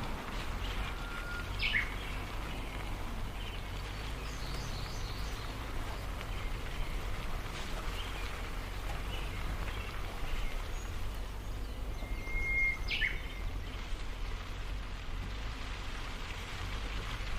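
Wild birds calling outdoors over a steady low rumble, with two clearer sharp falling calls, one about two seconds in and another about thirteen seconds in.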